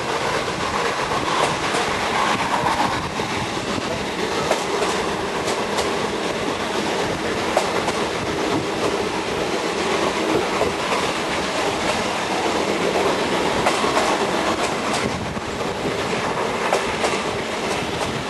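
Train hauled by the steam locomotive BDZ 46 03 running along the line: a steady rolling noise with wheels clicking over rail joints.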